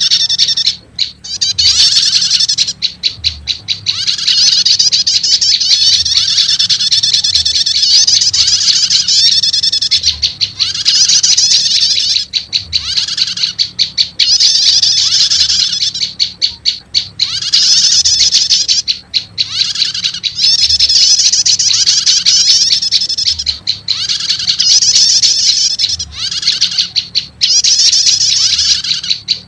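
Prenjak lumut lure call mixed with another prenjak call: rapid, dense high chattering trills in bursts of one to two seconds with short breaks, and a short arched lower note about once a second.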